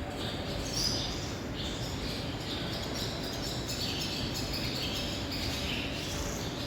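Barn swallows twittering in quick, repeated chirps over a steady low rumble of station ambience.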